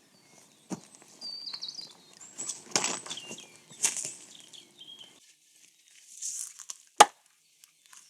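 Short rustling and crinkling handling noises, with a few thin bird chirps in the background and one sharp click about seven seconds in.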